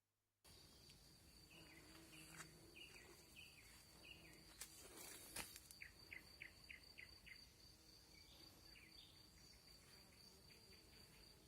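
Nightingale singing faintly: short falling whistled phrases, then a quick run of about six repeated notes, over a continuous high insect trill. Two brief clicks come about halfway through.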